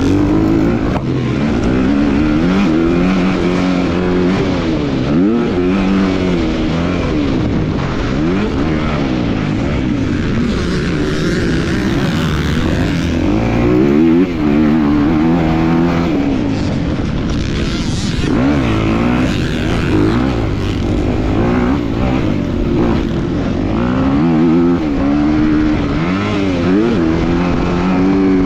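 A 250-class motocross bike's engine revving hard and backing off over and over as it is ridden around the track, its pitch climbing and dropping many times.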